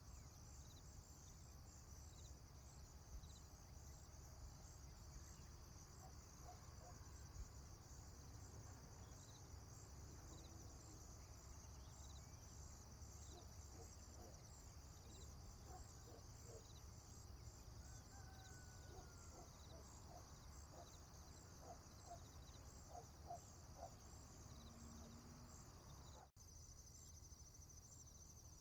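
Faint rural ambience: crickets chirping steadily in a high, finely pulsing band over a low rumble, with scattered short, faint animal calls in the middle stretch. About 26 seconds in, the whole sound cuts out for an instant.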